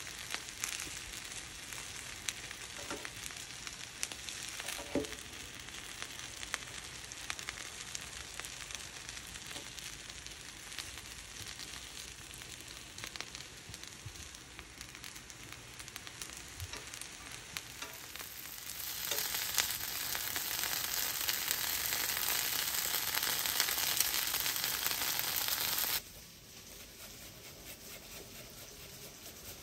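Aubergine slices frying in oil in a pan, a steady sizzle with a few faint pops. The sizzle grows louder for the last several seconds, then cuts off suddenly near the end to a much quieter background.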